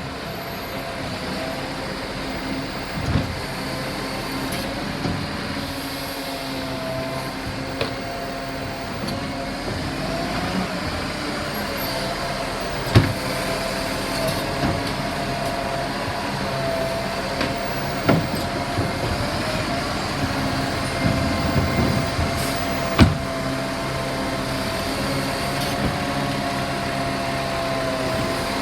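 Garbage truck running steadily with a wavering whine, while bins are lifted and emptied. Four sharp bangs come through, the loudest about halfway through and again a few seconds later.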